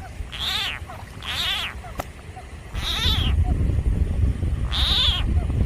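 Frog screaming: four high, wailing, cat-like calls, each about half a second long, the distress call of a frog under attack by a snake. A low rumble comes in about halfway through.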